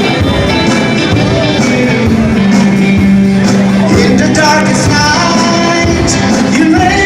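A band playing a love song in an instrumental passage between sung lines: a bending melodic lead line over a held bass note and a regular beat.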